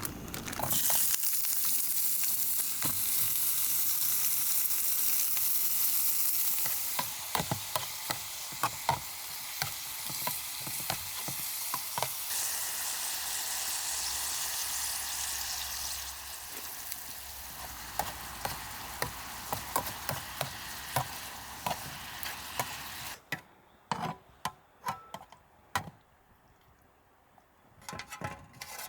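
Food sizzling in a hot pan: a loud hiss with crackles starts suddenly about a second in as the food goes in, eases after several seconds, and cuts off near the end, leaving a few scattered crackles and clicks.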